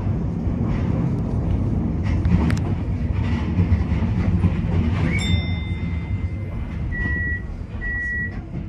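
Tokyo Metro 10000 series train running at speed: a steady rumble with scattered clicks from the track. About five seconds in, a steady high electronic tone sounds for over a second, followed by two short beeps near the end.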